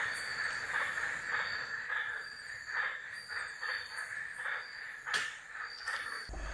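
Night chorus of rainforest insects: a steady high trill with pulsing calls repeating two or three times a second. There is one sharp click about five seconds in.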